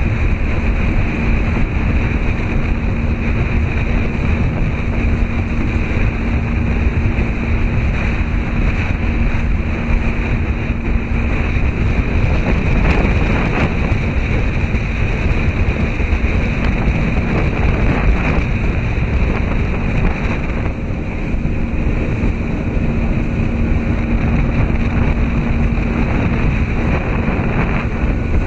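Steady rushing noise of wind and sea water with a constant low hum.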